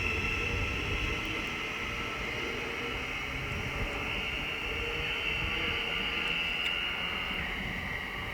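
Thameslink Class 700 electric multiple unit pulling away, its traction equipment giving a steady high whine over a low rumble; the whine steps down in pitch about seven seconds in.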